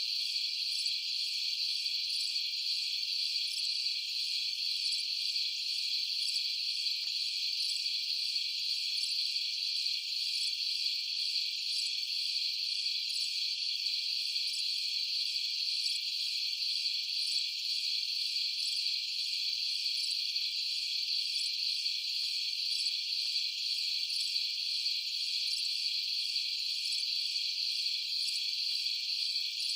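A dense, steady chorus of crickets trilling at night: a continuous high-pitched shimmer with a fast pulse in it and no low sound beneath.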